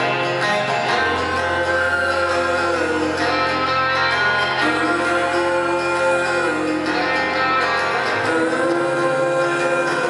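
Live band music between sung lines: strummed acoustic guitar over sustained lower notes.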